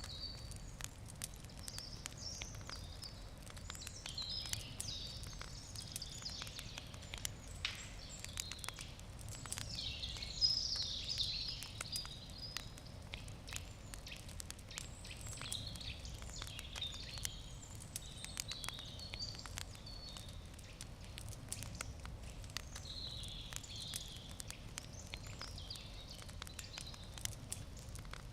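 Wood campfire crackling, with frequent sharp pops throughout and a louder pop about ten seconds in, over a faint low outdoor rumble and intermittent higher-pitched sounds.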